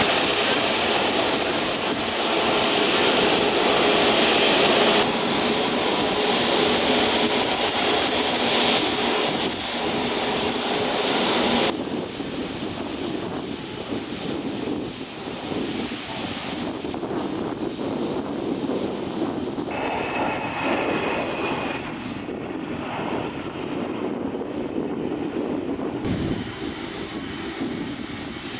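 Airbus A380 jet engines running at low taxi power, a steady rushing hum that drops abruptly to a quieter level about 12 seconds in, with a steady high-pitched whine joining from about 20 seconds.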